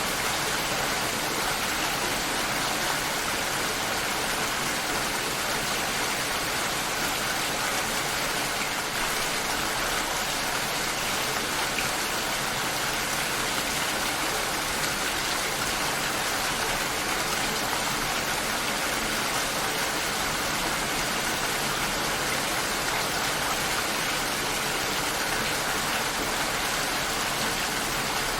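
Steady rain shower: an even, dense hiss of rain falling and pattering on surfaces, with no change in strength.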